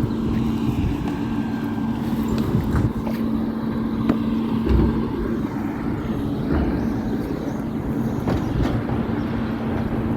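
Garbage truck engine running with a steady hum, and a few sharp knocks.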